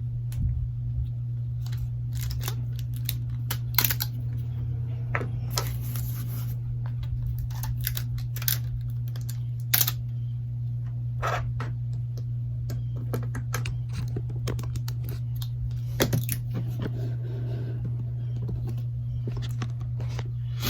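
Scattered small clicks and taps of phone parts and tools being handled during a smartphone repair, irregular and sharp, over a steady low hum.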